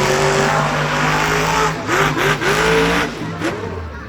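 Monster truck engine revving hard, its pitch rising and falling repeatedly, easing off after about three seconds.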